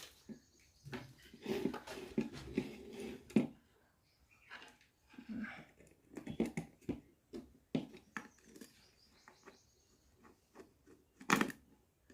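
Irregular small clicks, taps and scrapes of hands working wires and terminal screws on an electrical switch board, with a sharper knock near the end.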